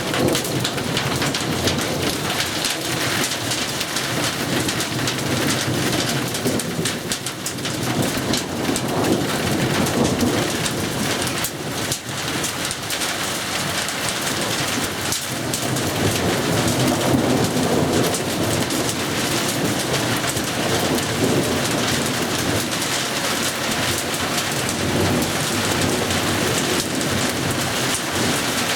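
Thunderstorm with heavy rain and hail pelting down in a dense, continuous spatter of sharp ticks. Thunder rumbles underneath, swelling and fading in several long rolls.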